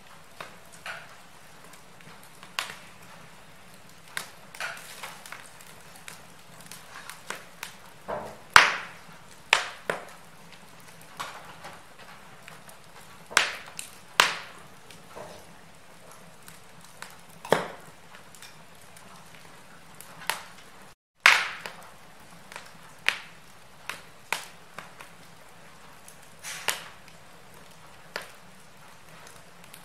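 Wood fire crackling in a fireplace: irregular sharp pops and snaps of varying loudness over a faint steady hiss. The sound cuts out completely for a moment about two-thirds of the way in.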